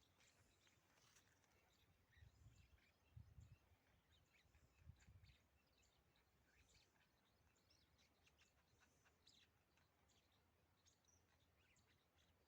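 Near silence: faint outdoor ambience with scattered faint high chirps, and a few soft low thumps in the first five seconds.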